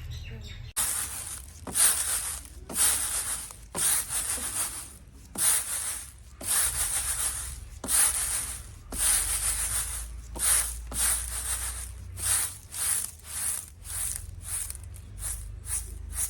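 Repeated scraping or rubbing strokes, about one a second at first and quickening to about two a second near the end.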